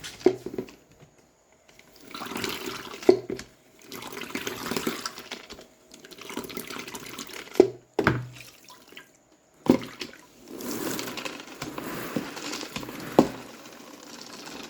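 Water splashing and sloshing in a plastic spin-mop bucket in several spells of one to three seconds, with a few sharp knocks in between.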